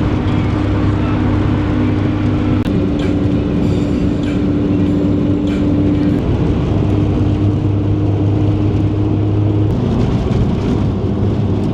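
Car driving at a steady speed: a steady engine drone over loud road noise, the engine note changing near the end.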